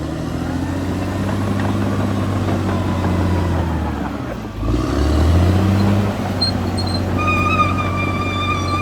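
Caterpillar D6R XL bulldozer's diesel engine running under load. The engine note dips briefly a little after four seconds in, then picks up again. A steady high tone joins in about seven seconds in.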